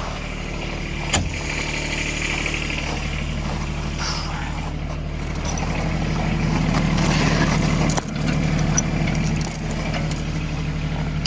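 Engine of the loader machine towing the dead RTV, running steadily, swelling louder for a couple of seconds about six seconds in. A sharp knock about a second in and a few clicks near the end.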